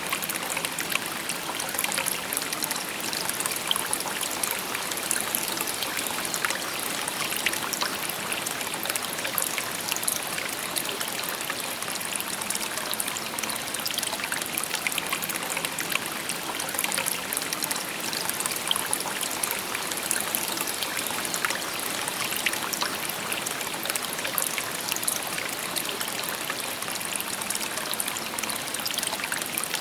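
Shallow river babbling over stones: a steady rush of water with many small trickles and splashes.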